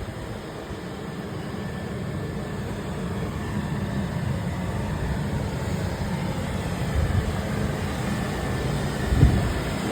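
Freight train hauled by an EF510 electric locomotive approaching: a steady low rumble that grows slowly louder, with a single low thump near the end.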